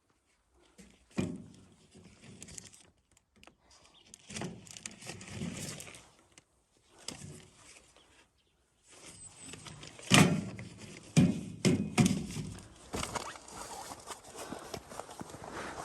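Irregular thumps and shuffling of a person moving about on foot. A cluster of louder, sharp knocks comes about ten to twelve seconds in.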